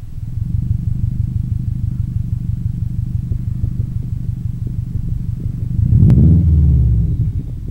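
2004 Subaru WRX's turbocharged flat-four idling through an aftermarket Tanabe exhaust and 3-inch downpipe, a deep, evenly pulsing note. About six seconds in it is revved once briefly and drops back to idle.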